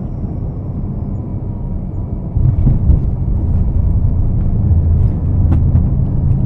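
Steady low rumble of a moving vehicle, stepping up louder about two and a half seconds in.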